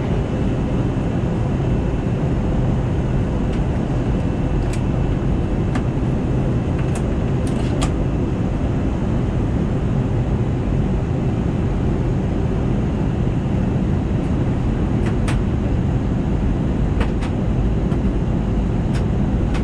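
Steady rush of engine and airflow noise inside an Airbus A320neo's cabin during descent, with a few faint clicks.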